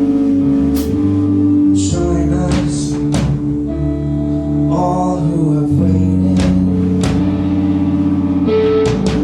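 A live rock band playing: electric guitar holding notes and chords over bass, with drum and cymbal hits recurring through the passage.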